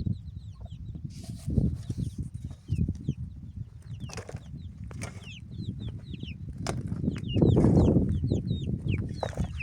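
Birds chirping in many short, falling calls, over low irregular knocks and scuffs, with a louder rustling stretch about eight seconds in.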